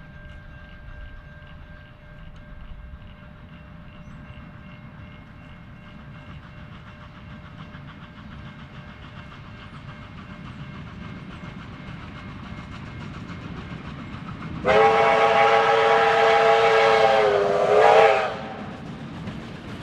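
Steam locomotive R761, a Victorian Railways R class 4-6-4, approaching with a rumble that slowly grows louder. About three-quarters of the way in it sounds its steam whistle, a loud chord of several notes held for about three seconds that sags in pitch as it cuts off.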